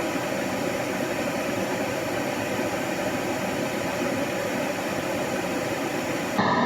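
Steady white-noise track, a continuous even rush with no rhythm or pitch. A little before the end it cuts abruptly to a different sound with steady tones.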